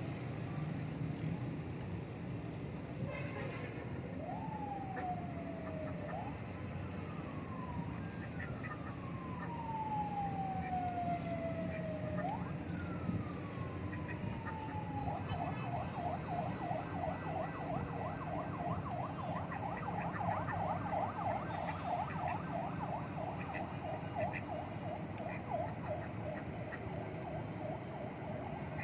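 Emergency vehicle siren: slow sweeping wails gliding down in pitch, switching about halfway through to a fast, rapidly repeating yelp.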